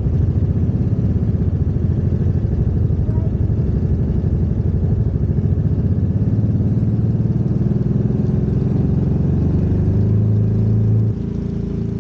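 Off-road vehicle engine running steadily while driving a trail, with a sudden drop in level near the end.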